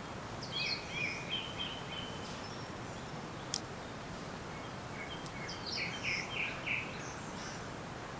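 A small bird sings two short phrases of quick chirping notes, one about half a second in and one about five seconds in, over a steady background hiss. A single sharp click sounds between the two phrases.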